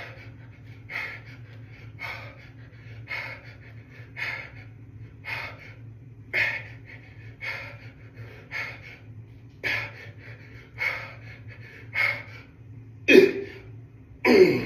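A man breathing hard through a set of dumbbell hammer curls, with a forceful exhale about once a second in time with the reps. Near the end come two louder, voiced gasps. A steady low hum runs underneath.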